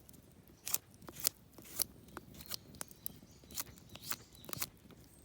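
Knife carving wood in short, irregular cutting strokes.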